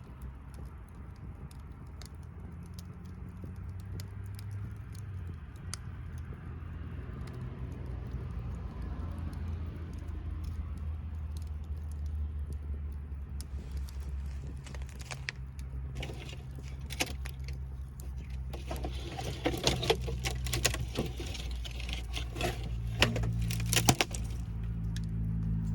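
A low engine-like hum that slowly grows louder, with a run of sharp clicks and rattles through the second half.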